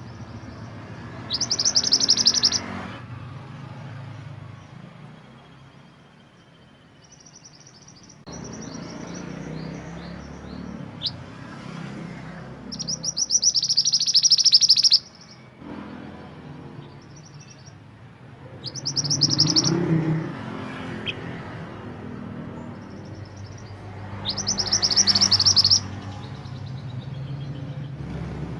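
Burung mantenan gunung singing: four loud bursts of fast, high trilled notes several seconds apart, with softer chirps and short note series between them, over a steady low background rumble.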